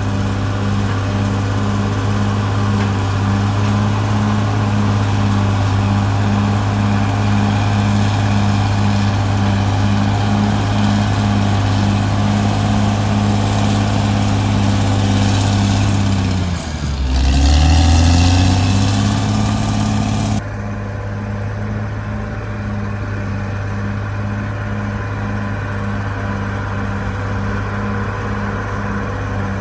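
Caterpillar D6R XL bulldozer's diesel engine running steadily with a rhythmic pulsing. A little over halfway through, the engine note dips sharply and then climbs back up.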